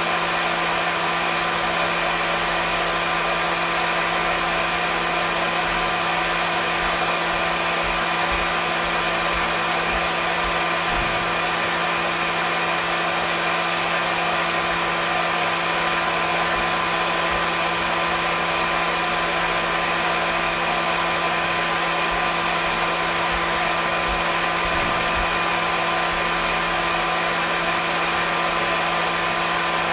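Hair dryer running steadily: a constant rushing airflow with a steady motor hum and whine.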